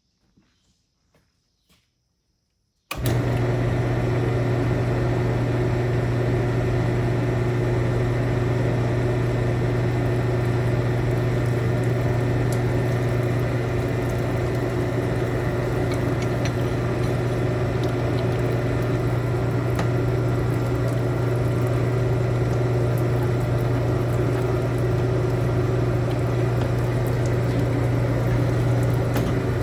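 A few faint clicks, then a machine motor switches on abruptly about three seconds in and runs with a steady low hum.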